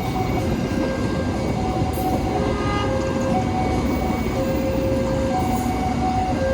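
Brantas economy passenger train running through the station with a steady heavy rumble, and a melody of held tones at changing pitches heard over it.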